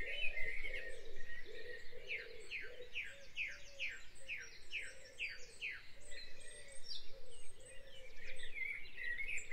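Birds chirping in the background: a run of quick downward-slurred notes, about two or three a second, from about two seconds in to past the middle, over softer, lower chirping.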